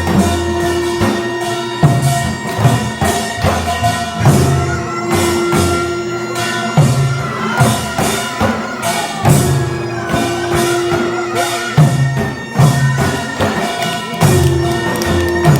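Korean traditional percussion music for the deotbaegi dance, with dense drum and metal percussion strokes. A long held tone comes back every two to three seconds.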